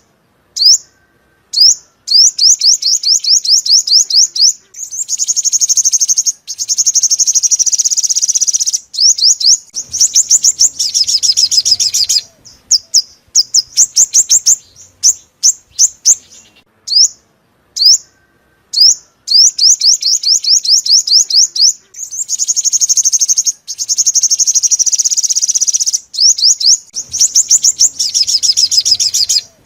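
A five-colour sunbird (purple-throated, yellow-bellied) singing loudly: fast runs of high, thin, sweeping notes alternating with buzzy trills. It is a lure recording for trapping, and the same phrase sequence repeats about halfway through as the track loops.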